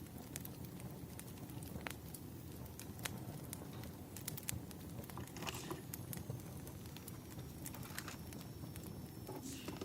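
Wood fire crackling: a steady low rumble under scattered sharp pops and snaps of burning logs.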